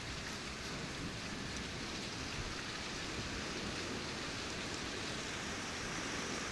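Steady rain falling during a thunderstorm, an even hiss of rain with no thunderclap.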